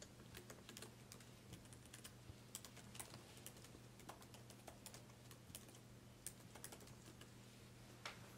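Faint, irregular sharp clicks and crackles, a few each second, over a steady low hum.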